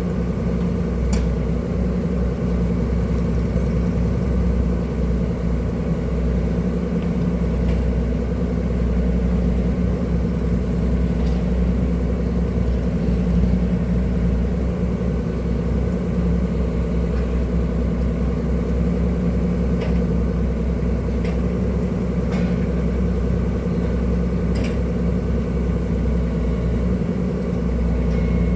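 Excavator's diesel engine running steadily, with a few faint clicks now and then.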